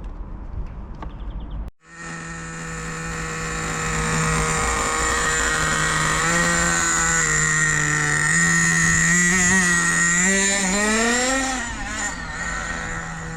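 Hot Bodies .18 nitro RC engine running at a high, steady buzz, then revving up and down in pitch over the last few seconds. It starts abruptly about two seconds in, after a short stretch of low rumble.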